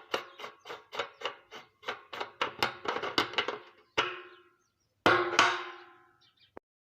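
A run of sharp knocks, each separate and short, speeding up from about two to about five a second, then two single hits that ring out briefly.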